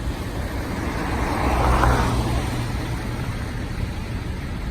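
Duramax diesel engine of a GMC 5500 bucket truck running steadily with the PTO engaged, driving the hydraulics as the boom telescopes. A wash of noise swells and fades, loudest about two seconds in.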